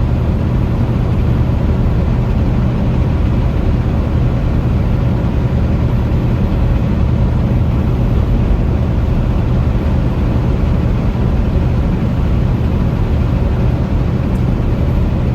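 Semi truck running down the road, heard from inside the cab: a steady low engine drone mixed with road noise.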